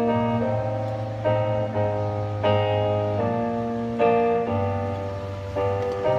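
Piano playing chords over sustained low bass notes, a new chord struck about every half second to second, in a steady rhythm.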